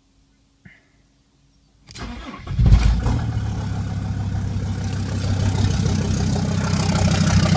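Mercedes C250 Turbodiesel's five-cylinder diesel engine started from cold: after a faint click it cranks about two seconds in, catches within a second and runs on steadily, slowly getting louder. It runs with the exhaust downpipe off, so the engine is heard without its exhaust system.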